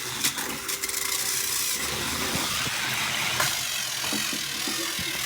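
Battery-powered toy train engines running, a steady whir of small motors with wheels rubbing and grinding on the track as they strain in a strength contest, with a couple of clicks.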